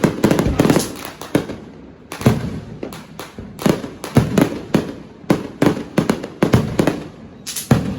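Fireworks going off in a rapid, irregular barrage: many sharp bangs, often several a second, each trailing off in a short echo.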